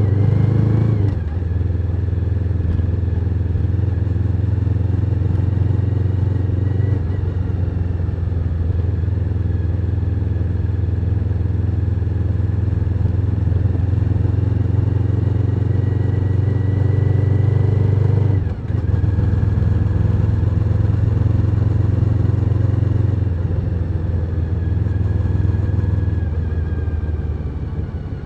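Suzuki SV1000N's 90-degree V-twin engine running steadily on the road. The engine note breaks briefly about a second in and again about two-thirds of the way through, then eases off near the end.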